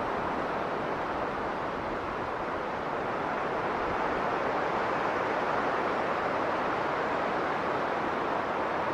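Strong blizzard wind blowing steadily, swelling slightly about three seconds in.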